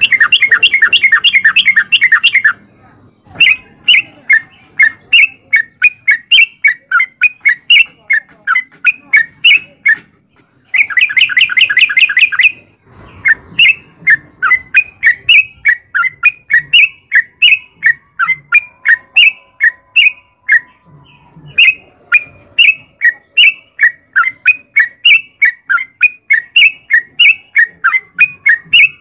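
Yellow-vented bulbul (cucak trucuk) singing: a fast rattling trill at the start and again about eleven seconds in, with runs of quick, separate chirping notes, a few a second, between and after them.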